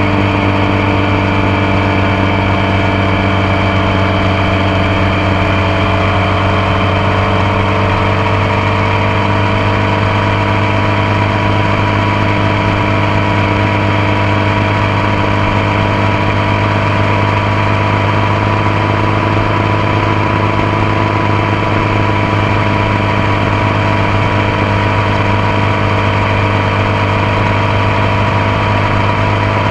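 Motorcycle engine running steadily at a constant pitch, heard up close from the passenger foot peg, with a slight dip in pitch a few seconds in.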